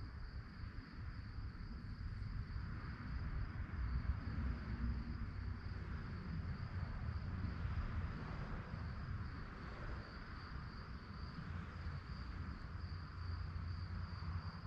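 Crickets chirping at night in a steady, high, slightly pulsing trill, over a low rumble.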